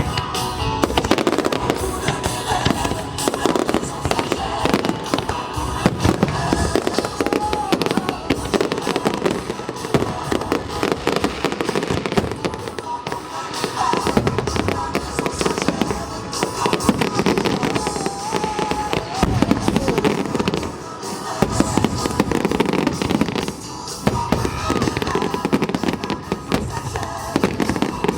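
Fireworks going off in a dense barrage of bangs and crackling bursts, with music playing underneath. The barrage eases briefly twice in the second half.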